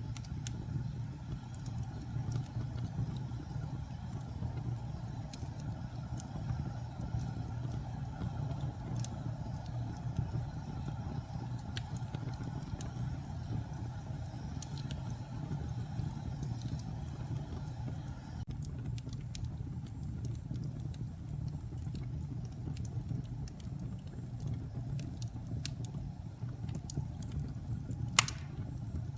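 Wood fire burning in a fireplace: a steady low rumble of flames with scattered small crackles, and one sharp loud pop near the end.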